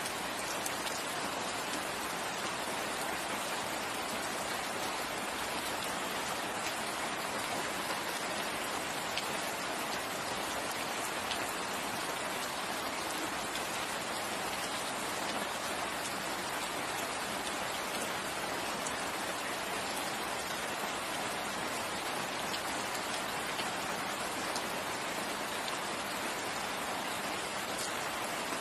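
Steady rain falling on leaves and ground, an even hiss with scattered individual drops ticking through it.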